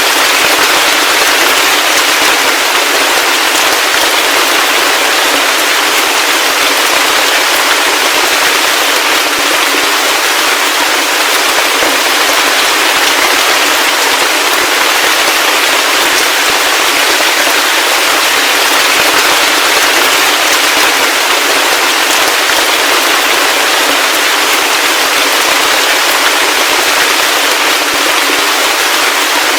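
Heavy rain falling steadily: a dense, even hiss of countless drop impacts with fine crackling ticks throughout.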